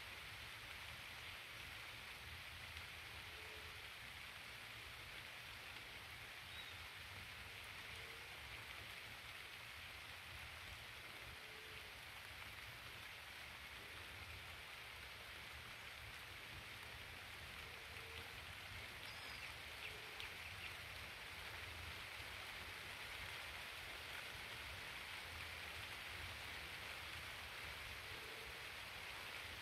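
Steady hiss of light rain mixed with water rushing over a reservoir spillway, with a low rumble underneath.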